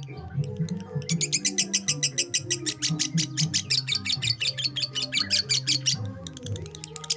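Lovebird ngekek: a long unbroken run of rapid, sharp chirps, about nine a second, starting about a second in and breaking off about six seconds in. Background music with a low bass line runs under it.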